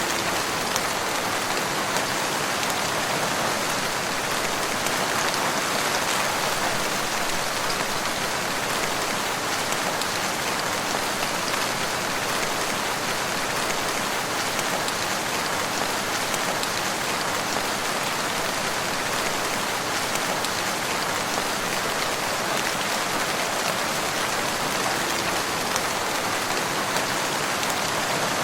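Steady rain falling, an even hiss of many drops with faint scattered individual drop ticks.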